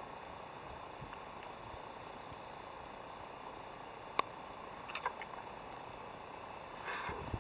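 A steady, high chirring chorus of summer insects. A sharp click comes about four seconds in, a few lighter clicks follow a second later, and there is a brief rustle near the end.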